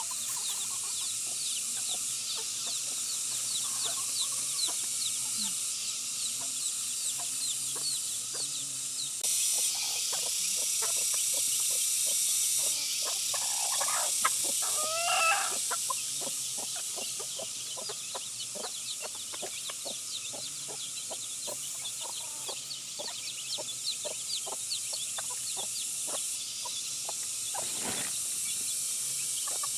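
Chickens clucking, with a louder call about halfway through. Behind them are a steady high hiss, many short high peeps and, through the second half, a run of light taps.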